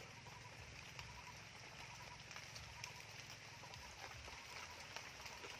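Near silence: faint outdoor ambience with a few light clicks.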